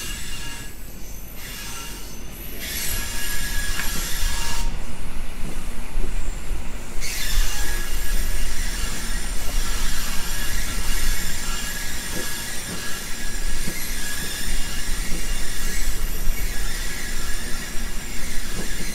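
An EN57 electric multiple unit running at speed, heard at its open window: wheels rolling on the rails and rushing air, with a steady high-pitched wheel squeal. The high part of the noise drops away briefly twice in the first third, then returns.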